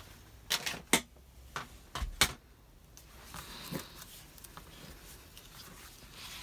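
Paper cutter being handled on a desk: four sharp clicks and knocks in the first couple of seconds, then a faint, steady scraping hiss that fits a blade drawn through paper.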